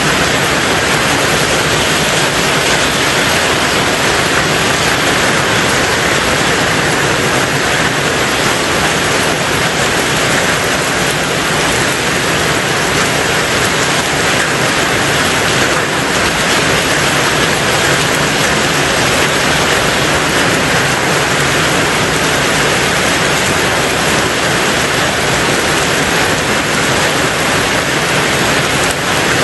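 Heavy rain on a tin roof, a dense, even hiss with no separate drops standing out and no let-up.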